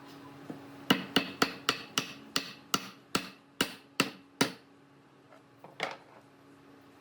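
Hammer blows on wood: a quick run of about a dozen strikes, roughly three a second, starting about a second in, then one last blow a little later.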